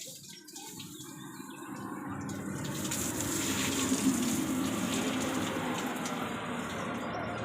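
Water jet spraying onto a truck in a steady gush, swelling over the first three seconds and then holding steady.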